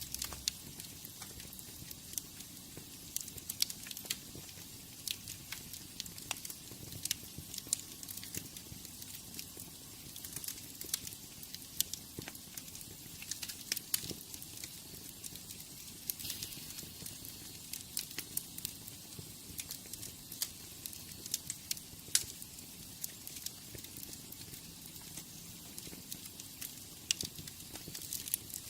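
Wood fire burning in a fireplace, crackling with many irregular sharp pops over a steady soft hiss.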